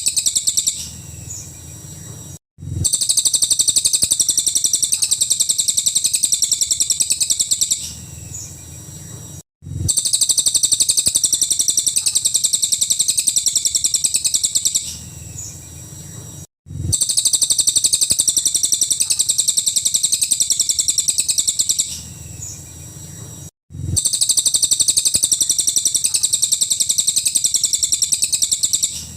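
Cililin songbird singing its shrill 'tembakan' song: a rapid, high-pitched trilled phrase lasting about five seconds, then a short pause, repeating about every seven seconds, four times over.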